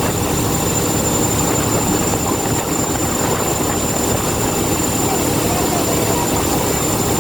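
Steady engine and road noise from vehicle traffic, an even rumble that does not rise or fall, with a thin steady high-pitched tone over it.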